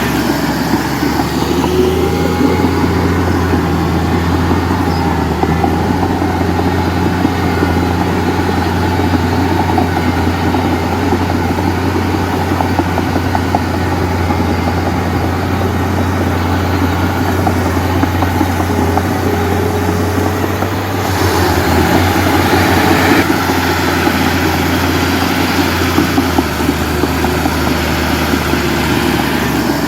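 Heavy diesel engine running steadily with a low drone, loading up and growing louder and harsher for about two seconds roughly two-thirds of the way through, then settling back.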